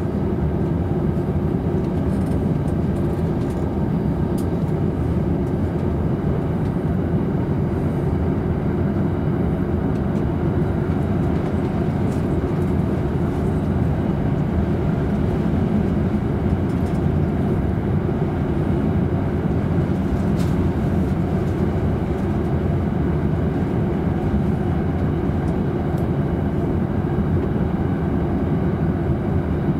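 Steady running noise of a JR East Tokaido Line train heard from inside its double-decker Green car while it runs at speed: an even low rumble of wheels on rails.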